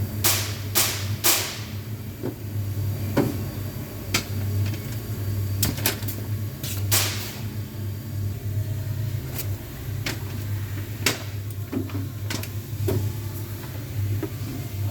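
Irregular sharp clicks and knocks of hands and tools working on a truck door's power window, over a steady low hum.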